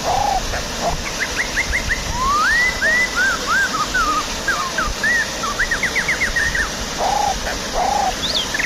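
Steady rush of a waterfall with small birds singing over it: runs of quick chirps and rising whistles, and a few short lower calls near the start and the end.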